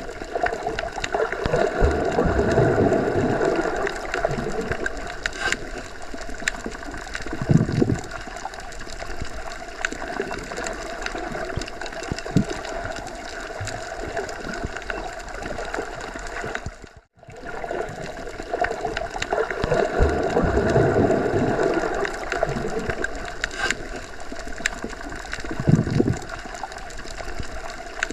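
Underwater ambience: a steady, muffled rush of water with slow swells and a few low thuds. It cuts out for a moment about 17 seconds in, then the same sequence starts over like a loop.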